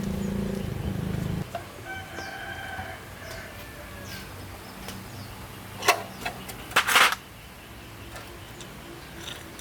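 An engine running steadily, then cutting off about a second and a half in. A rooster crows just after. Two sharp knocks come about six and seven seconds in, the second a short clattering burst that is the loudest sound.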